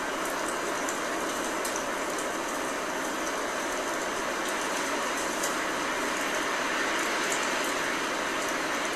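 Steady blizzard ambience: an even rush of wind-driven snow with no let-up, and faint high ticks here and there.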